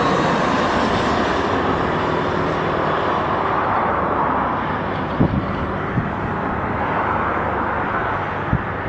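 Aeroplane passing overhead: a steady engine roar that slowly eases off, with a few short knocks in the second half.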